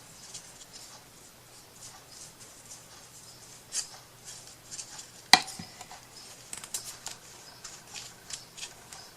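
Small handling sounds of craft work at a table: light scattered clicks and rustles, with one sharp click a little past the middle.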